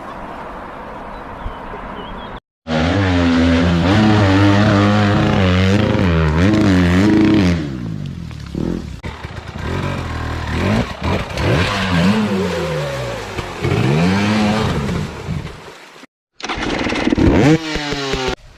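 Dirt bike engines revving, the pitch rising and falling again and again as the bikes ride, in several short segments that cut off abruptly. There is a sharp rising rev near the end.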